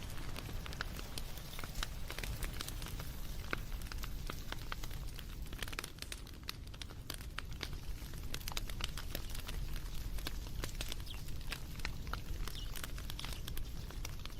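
Wood fire in a fireplace crackling and popping, with many irregular sharp snaps over a steady low rumble.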